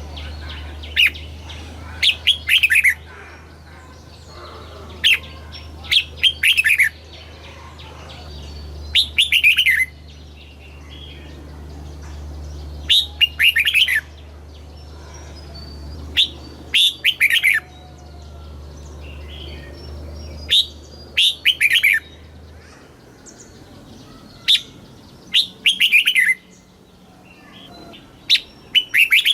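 Red-whiskered bulbul singing: short phrases of quick, falling whistled notes, repeated every couple of seconds. A low steady hum underneath stops about three-quarters of the way through.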